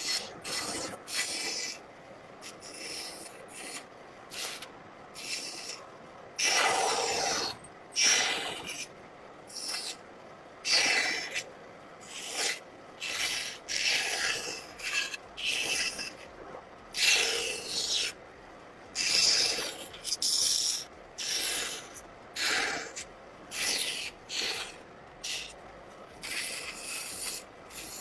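Wood being worked with repeated rasping, scraping strokes, each well under a second long, coming irregularly about once a second.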